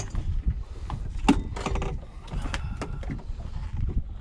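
Knocks and thumps of a freshly landed fish flopping against the boat, over a steady low rumble of wind on the microphone. The sharpest knock comes about a second in.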